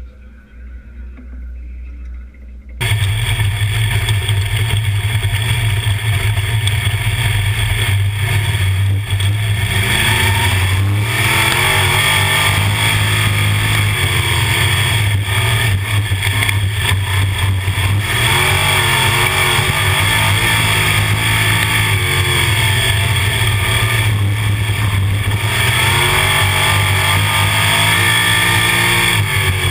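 305 sprint car V8 engines running at race pace, revving up and down in repeated rising and falling pitch sweeps. The engine noise starts abruptly about three seconds in and stays loud.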